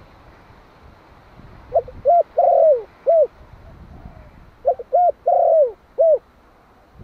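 Malai-type spotted dove cooing its calling song. It gives two phrases of four coos each, one starting a little under two seconds in and the other a little before five seconds. The third coo of each phrase is the longest.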